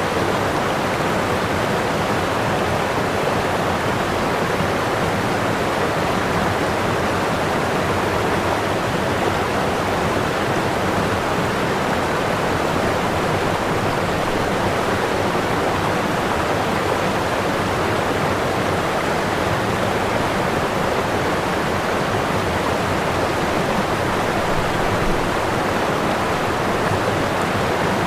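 Waterfall: whitewater pouring over the falls in a steady, unbroken rush.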